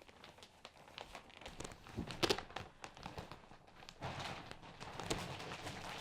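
Handling noise: rustling with scattered clicks and small knocks, one louder knock a little over two seconds in.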